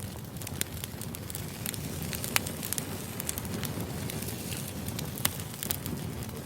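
Firewood burning: a steady low rumble of flames with irregular sharp crackles and pops, two louder pops about two and a half and five seconds in.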